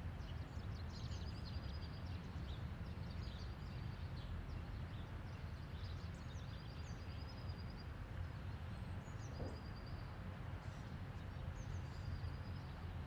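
Quiet outdoor background: a low steady rumble with small birds chirping and trilling on and off.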